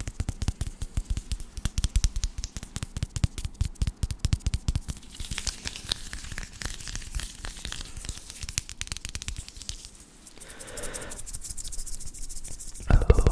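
Fast, irregular crackling and clicking close to the microphone, an ASMR trigger, thinning out about eight seconds in; a soft hiss follows, then a louder burst near the end.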